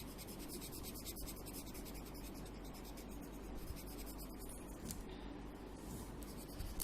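Colour pencil scratching steadily on paper in quick back-and-forth strokes, filling in an area with brown.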